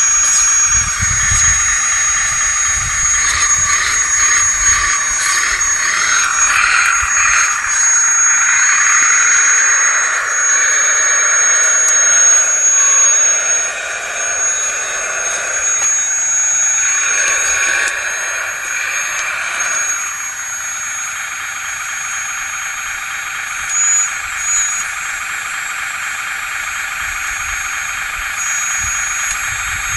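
Electric hydraulic pump and motors of a 1/16-scale full-metal RC hydraulic wheeled excavator (Volvo model) running with a steady high whine. Between about 7 and 20 seconds in, a lower whine rises and falls as the machine works, then settles back to the steady whine.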